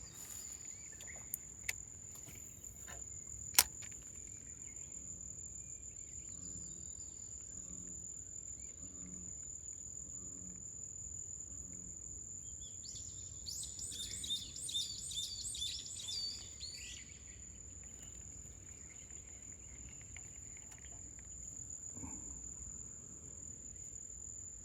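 Outdoor ambience with an insect's steady, high-pitched call. A bird sings a short run of chirping notes about fourteen seconds in, and there is one sharp click a few seconds in.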